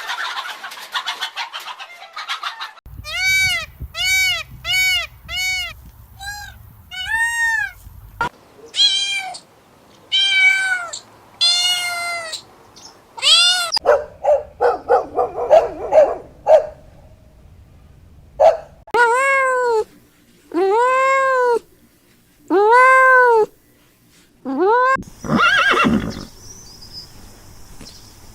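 A run of short clips of animal calls: groups of repeated cries, each rising and then falling in pitch, from about a second in, with short gaps between clips.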